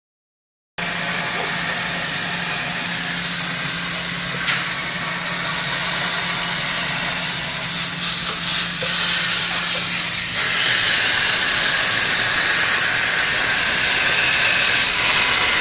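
CNC plasma torch cutting metal: a loud, steady high-pitched hiss. A low hum under it stops about ten seconds in, and the hiss grows louder after that.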